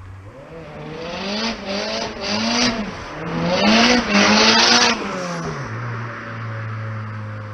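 Turbocharged Rover 1.8 K-series four-cylinder engine in an MG TF being revved, its note rising and falling several times, with a loud rushing noise over the loudest stretch. It then settles back to a steady low note about six seconds in.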